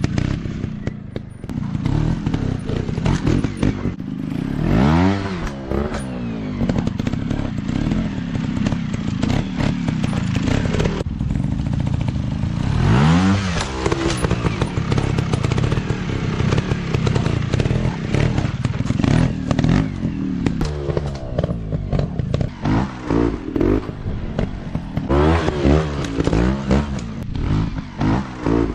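Dirt bike engine running hard, revving up in two long rising sweeps about five and thirteen seconds in, then blipped up and down again and again in the last third, with clattering knocks throughout.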